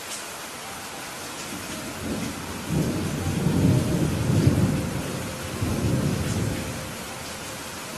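Steady rain falling, with a low rolling rumble of thunder that builds about two seconds in, is loudest in the middle and dies away near the end.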